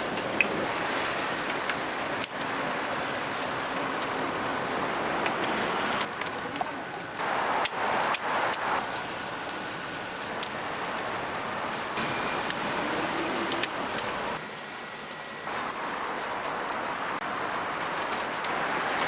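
Steady sizzling hiss of whole chickens grilling over an oak-wood charcoal fire, with scattered sharp crackles and clicks.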